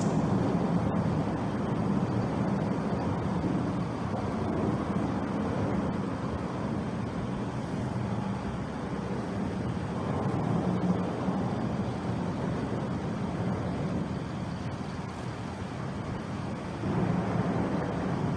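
Steady rumble of road traffic on a bridge, swelling as vehicles pass about ten seconds in and again near the end, with a brief click at the very start.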